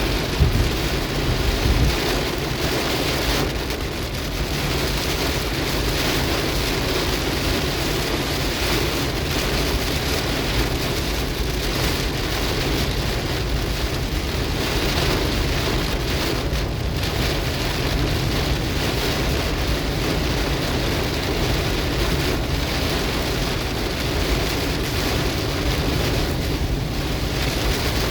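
Heavy cloudburst rain drumming steadily on a car's roof and windscreen, heard from inside the cabin, with a brief louder low thump about half a second in.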